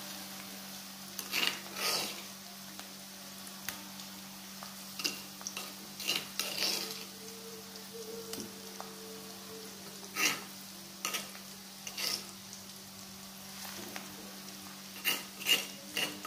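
Ground spice paste and sliced onion frying in hot oil in a wok, a steady sizzle, with a metal spatula scraping and knocking against the wok now and then. This is the spice paste being sautéed before the shredded chicken goes in.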